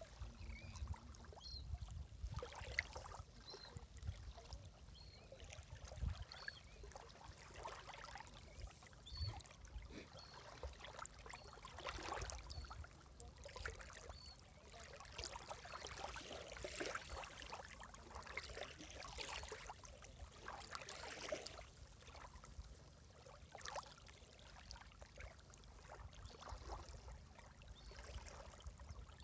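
Sea water lapping and splashing in small, irregular washes.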